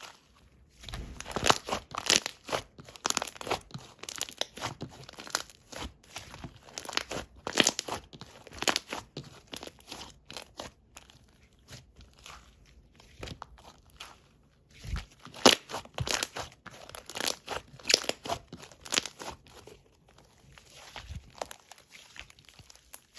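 Slime with a chocolate topping being pressed and squished by hand, crunching and crackling in quick, irregular clusters with brief pauses between handfuls.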